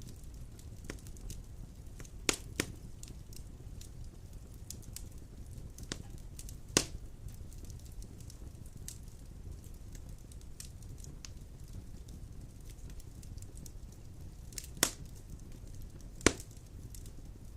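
Wood fire burning in a fireplace: a steady low rumble with scattered crackles and four louder snaps of the burning logs.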